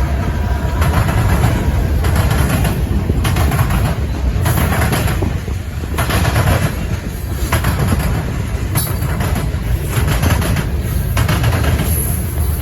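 Hopper cars of a CN potash train rolling past, with a steady heavy rumble and wheels clacking over the rail joints at a regular beat.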